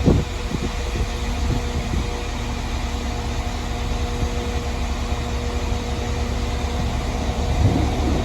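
Steady mechanical hum of a train, a low rumble with a held tone over it, growing a little louder near the end.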